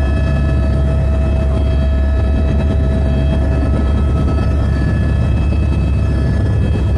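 Helicopter in flight: a loud, steady deep rumble with a steady high whine on top.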